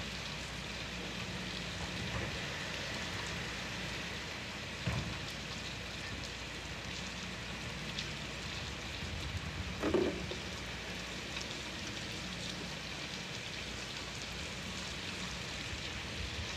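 Steady rain falling on pavement and lawns, an even hiss of rain, with a short louder knock about ten seconds in.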